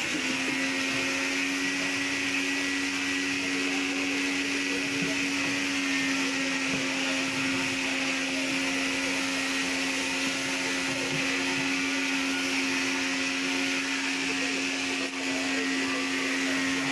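A small electric motor starts up and runs steadily at a constant high speed, with an even whine and a hiss.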